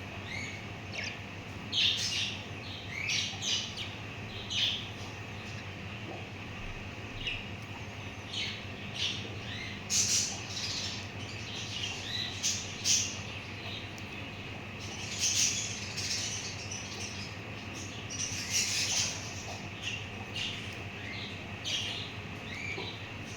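Budgerigars chirping and chattering in short, irregular high calls, with busier bursts now and then, over a faint steady hum.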